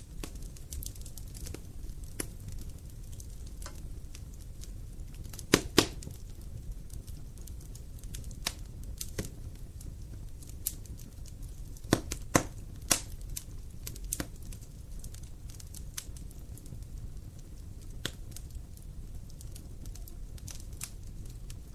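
Wood fire crackling: a steady low rumble with scattered sharp pops and snaps, the loudest a pair about five and a half seconds in and a few more around twelve to thirteen seconds in.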